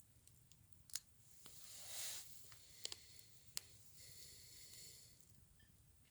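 Faint, scattered sharp clicks with a brief soft rustle in between, very quiet overall.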